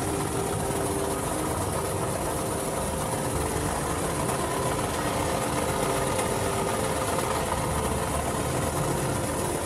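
An engine idling steadily with no change in speed.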